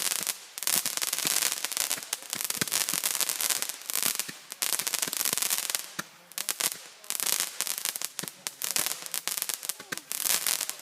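Roman candles firing: a dense, hissing crackle packed with sharp pops, dipping briefly a few times.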